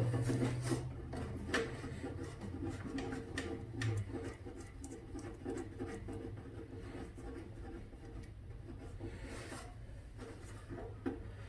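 Light irregular clicks and scraping of hand-tool work, a wrench on the mower starter's cable connection, over a low steady hum.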